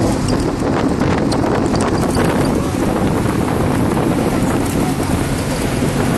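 Steady wind buffeting the microphone over a low rumble of travel, with a few faint clicks in the first two seconds.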